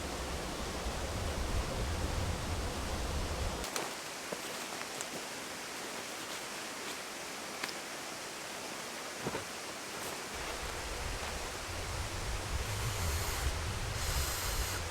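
Mountain stream running, a steady rushing of water. A low rumble sits under it for the first few seconds and returns about ten seconds in, with a few faint clicks.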